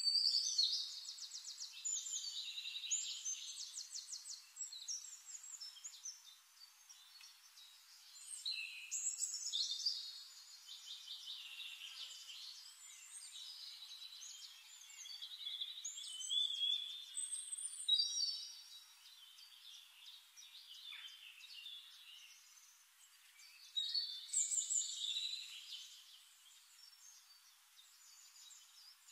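Songbirds singing in bursts of high chirps, whistled notes and rapid trills, thin with no low end.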